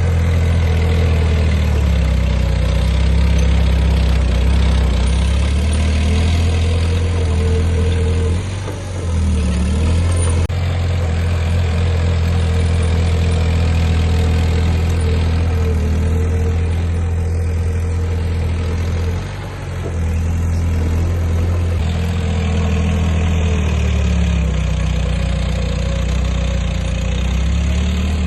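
Diesel engine of heavy earthmoving machinery (a dozer or dump truck) running steadily with a deep hum. It dips briefly twice, about a third and two-thirds of the way through.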